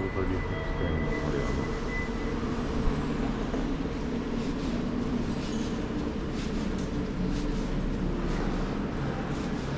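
Honda Super Cub C125's single-cylinder four-stroke engine and exhaust running steadily while riding, with wind and road noise.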